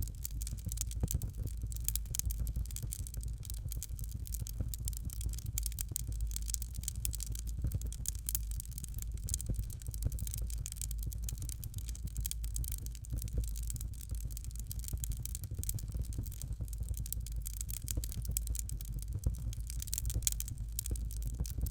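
Fire burning in a fireplace, crackling steadily with dense small crackles and pops over a low rumble.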